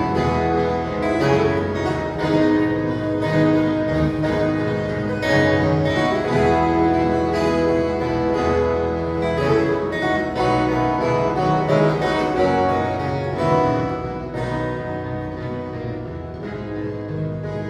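Ensemble of violas caipiras, ten-string Brazilian folk guitars, playing a Christmas tune, the plucked paired strings ringing over a bass line. The music eases off a little in the last few seconds.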